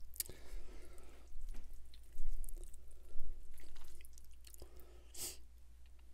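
Close-miked wet chewing and lip-smacking of a mouthful of spaghetti bolognese, with a couple of louder low bumps a little after two and three seconds in and a short noisy rush about five seconds in.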